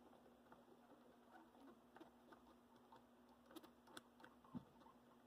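Near silence: faint small clicks and ticks of tools and parts being handled at the workbench, a few stronger ones near the end, over a faint steady hum.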